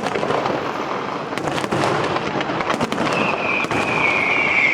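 Fireworks crackling with a rapid string of sharp pops and bangs. About three seconds in, a high whistle joins and falls slightly in pitch.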